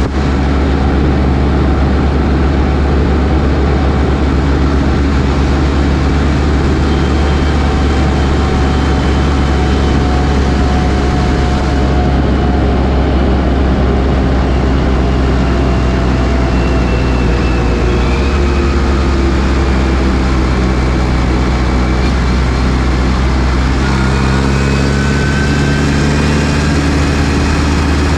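New Holland T6040 tractor's diesel engine running steadily with a deep hum, with a faint whine that drifts slowly down in pitch and rises again near the end.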